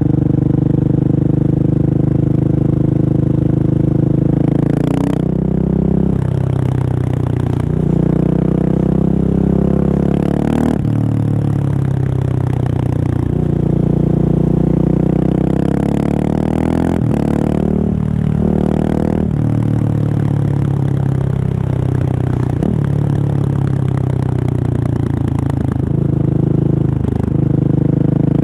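Husqvarna 701 single-cylinder engine with an open Remus exhaust, no dB killer, running under way. Its note holds steady for stretches of a few seconds and steps to a new pitch several times, with short breaks between.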